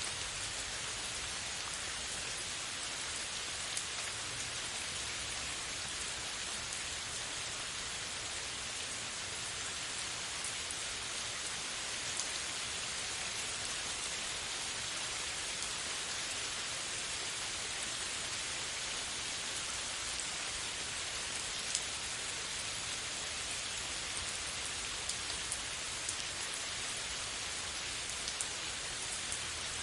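Steady rain falling on a surface, an even hiss with scattered sharper ticks of individual drops.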